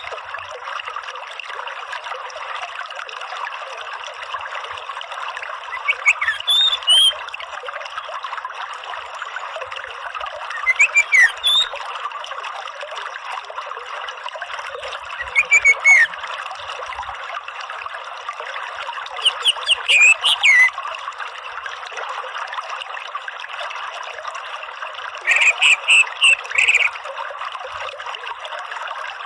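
Orange-headed thrush giving five short bursts of high, quick chirping notes, about one every four to five seconds, over a steady rush of trickling water.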